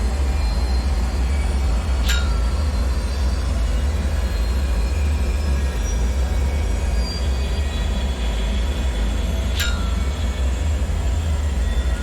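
Dark bunker ambience: a steady deep rumble with faint high metallic squeals and thin tones drifting in and out. Two sharp clicks, each with a short ringing tail, sound about two seconds in and again near the end.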